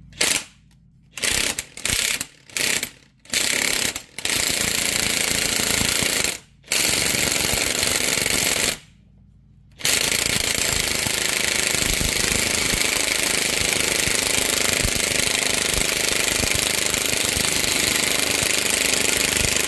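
Impact wrench hammering as it drives the screw of a bearing press, pushing a universal joint cup out through the axle yoke. It goes in several short bursts, then two runs of about two seconds, then one long continuous run of about ten seconds.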